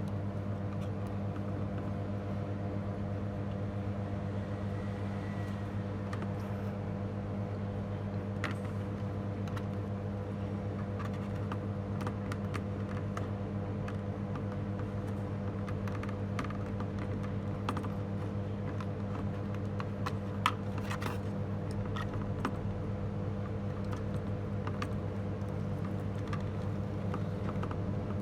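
A steady low electrical hum with scattered light clicks and taps, like small objects or keys being handled; one sharper click about twenty seconds in.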